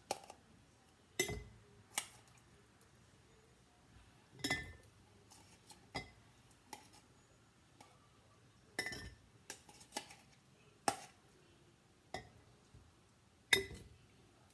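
A scoop clinking and tapping against glass quart canning jars as crushed pineapple is spooned into them: about a dozen sharp, irregular clinks.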